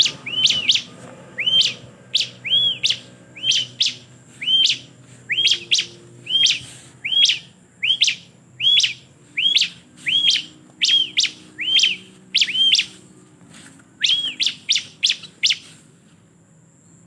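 Bar-winged prinia (ciblek) calling: a long series of sharp, high chirps, each a quick downward sweep into a short arched note, roughly two a second, stopping near the end.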